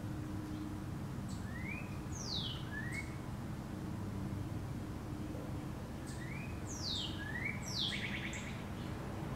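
Wild songbirds singing outdoors: clear whistled notes that slide down in pitch, each followed by a short rising note, repeated several times, with a quick trill near the end. A steady low hum runs underneath.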